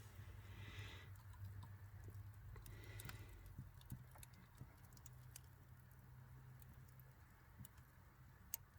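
Faint crackling of an outdoor Easter bonfire: scattered sharp pops and snaps over a low rumble.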